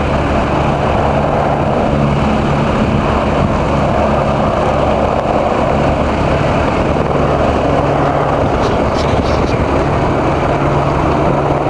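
Helicopter in flight, its engine and rotor making a steady, unbroken loud noise with a constant low hum.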